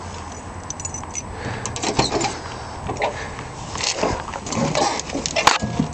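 Someone climbing into a car: scattered clicks and knocks of the door and interior being handled, with keys jangling, over a low steady rumble.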